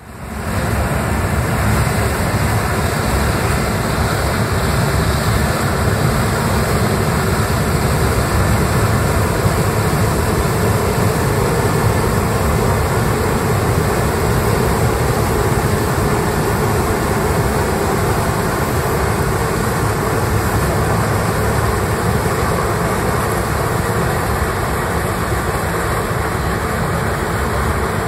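Heavy harvesting machinery, combines and tractors with grain carts, running in a field: a steady, loud engine and machine rumble that holds without change.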